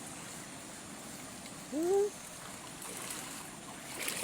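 Steady sound of running water. About two seconds in, one short rising exclamation from a person's voice is the loudest thing heard.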